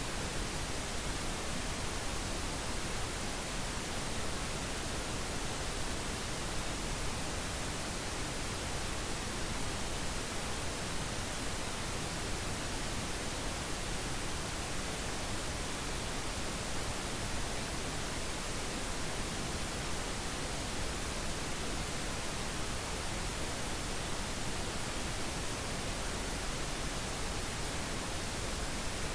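Steady, unchanging synthetic pink noise: an even hiss spread across all frequencies, with no events in it.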